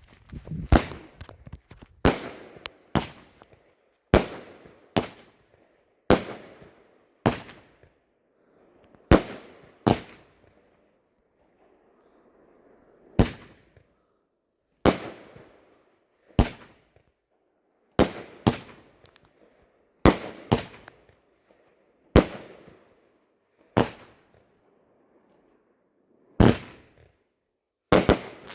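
Flashing Fireworks Gizmo, a 200 g 16-shot firework cake, firing shot after shot: about twenty sharp bangs, one every one to two seconds with a pause of about three seconds midway, each followed by a fading tail as the shell breaks and burns out.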